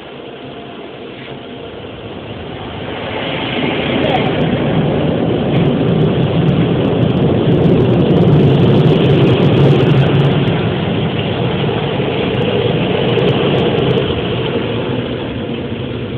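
Automatic car wash drying blowers blasting air down over the car, heard from inside the cabin. The rushing air noise builds over the first few seconds, is loudest around the middle and fades toward the end as the blowers pass.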